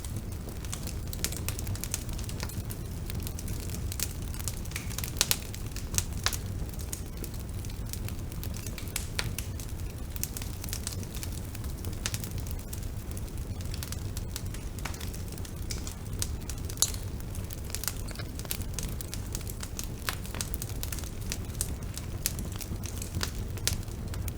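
Bonfire burning: a steady low rumble of flames with frequent irregular crackles and pops from the burning wood.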